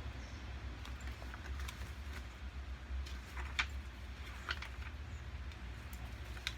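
Wind buffeting the microphone as a steady low rumble, with scattered sharp taps of raindrops, eight or so at irregular moments.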